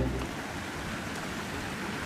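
Steady rushing of falling water from a waterfall, an even noise with no rhythm; the last of a guitar music track fades out just as it begins.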